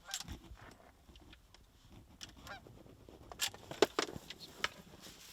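Goose honking: a string of short honks and clucks, with a few sharper ones over the second half.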